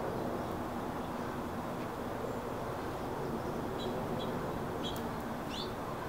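Small songbirds give a few short, high chirps starting about four seconds in, one a quick rising note near the end, over a steady low rumble.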